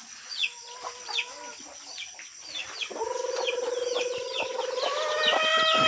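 Native chickens: chicks peeping, a run of short, high, falling peeps a few times a second. About three seconds in, an adult chicken gives a long, drawn-out call that holds steady, then steps up in pitch near the end.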